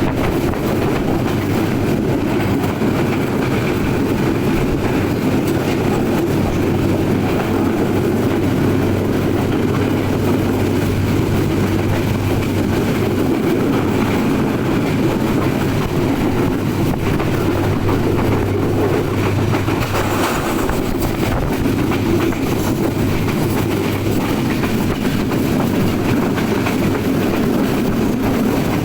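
Nilsagar Express passenger train running along the track, a steady rumble of wheels on rails with some clickety-clack. A low steady hum sits under it for about the middle half.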